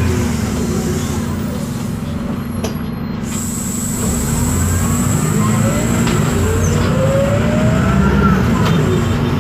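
City bus under way, its MAN D0836 LOH diesel running with a steady low drone while the ZF Ecomat automatic transmission and differential whine. The whines climb in pitch through the second half as the bus gathers speed.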